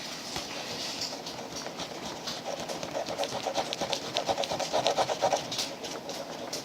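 Knife blade sawing back and forth through a plastic glow stick necklace tube: quiet scraping at first, then a run of quick, even rubbing strokes from about halfway that stops shortly before the end.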